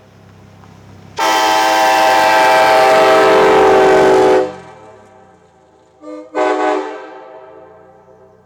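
Van-mounted Nathan Airchime K5LA five-chime train horn giving one long loud blast, then a brief toot and a short blast, with the chord ringing on in an echo after each.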